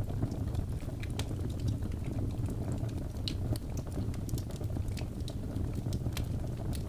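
Wood fire burning, with irregular crackles and sharp pops over a steady low rumble.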